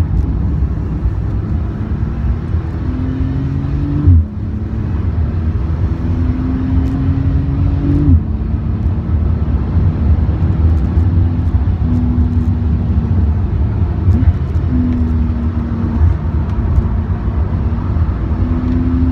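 In-cabin sound of a 2017 Porsche 911 Turbo S's twin-turbo flat-six accelerating hard around a track, heard over road and wind noise. The engine note climbs in pitch and falls sharply at each gear change, with the first two shifts about four seconds apart.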